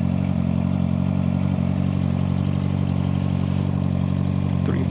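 Suzuki GSX-R600's inline-four engine running steadily at an even speed, with no revving.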